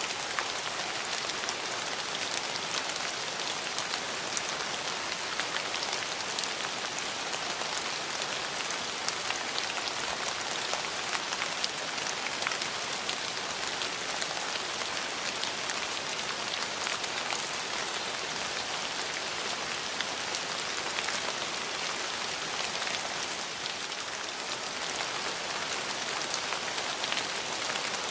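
Steady rain falling on hard surfaces, an even hiss with many fine individual drop ticks.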